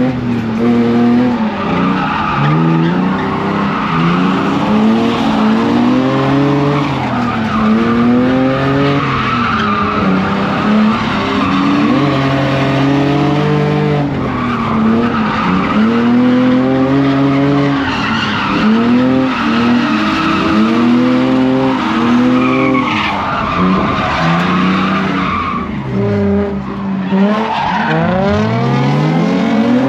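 E46 BMW drift car's engine revving up and down over and over through a drift run, the revs now and then held steady for a moment, with tyres skidding and squealing throughout.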